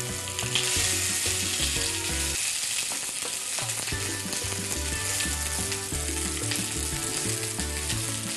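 Zucchini sizzling as it fries in a hot pan, the pieces being turned over with tongs to brown on the other side.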